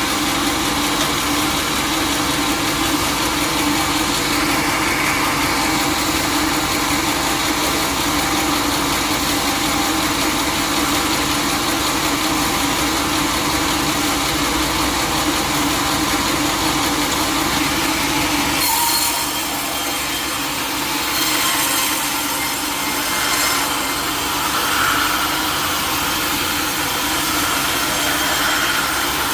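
Sawmill saw machine running steadily with a low hum. About two-thirds of the way through, the sound changes suddenly to a higher, rasping noise as the blade begins cutting through teak wood.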